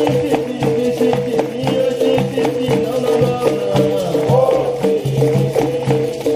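Live capoeira roda music: a berimbau playing a steady rhythmic pattern with the shaken caxixi rattle and a jingling pandeiro.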